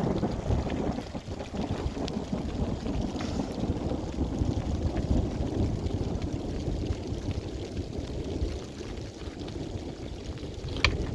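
Rainstorm with wind buffeting the microphone: a steady low rumbling rush with rain. A sharp click near the end.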